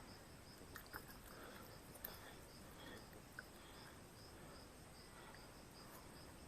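Near silence, with faint insects calling: a pulsing high chirp about three times a second over a thin steady high whine, and a few soft clicks.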